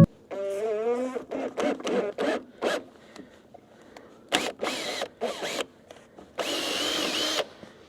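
Tools working on a nut: a run of short, separate bursts of mechanical noise, then a power tool running for about a second near the end.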